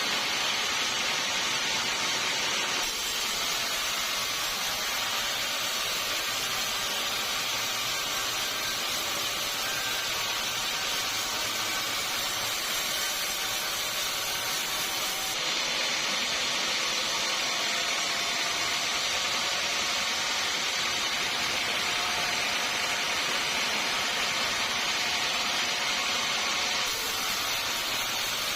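Sawmill saw running through wood, a steady hissing whir. The sound shifts abruptly twice.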